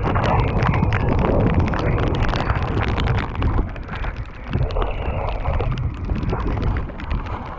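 Wind buffeting the camera microphone on a mountain bike descending a muddy trail in heavy rain, a steady low rumble with many small clicks and knocks of tyres, mud and rain striking the bike and camera. It eases a little in the second half.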